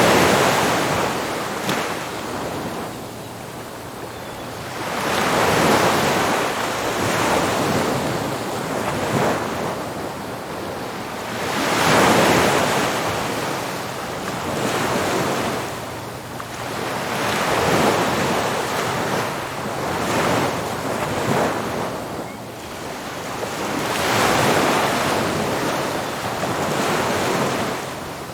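Ocean waves crashing on a beach, one surge about every six seconds with a steady wash of surf in between.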